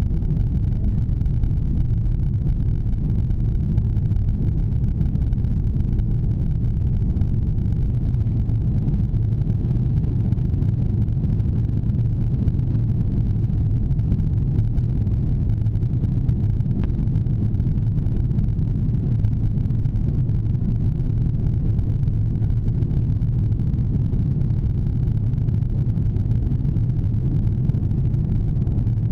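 Airbus A340 heard from inside the passenger cabin during takeoff: a steady, even low rumble of engines and airflow, with no change in pitch or level.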